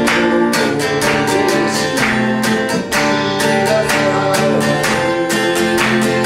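Acoustic guitar strummed in a steady rhythm of repeated chords.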